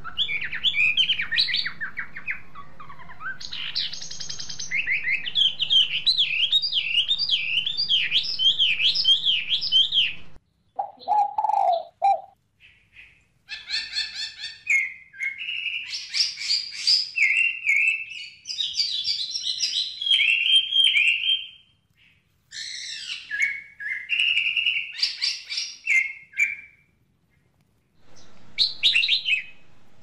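Small birds chirping and singing in high, quickly repeated chirps and up-and-down trills, broken by several abrupt gaps. A brief lower call comes in about eleven seconds in.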